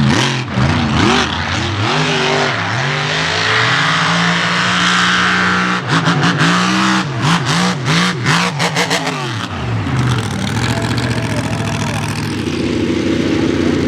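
Mega mud truck engine revving hard, its pitch swinging up and down over and over, with a run of sharp cracks about halfway through. It settles into a steadier, lower run near the end.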